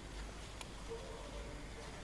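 Faint steady background noise with a low hum; no distinct event.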